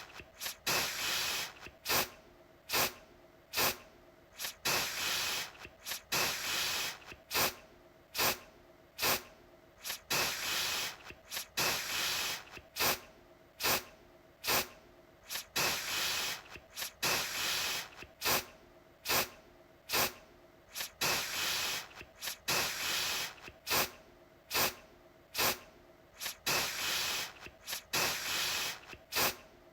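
Aerosol deodorant can spraying a hiss in repeated short puffs, one to two a second, mixed with longer sprays of about a second.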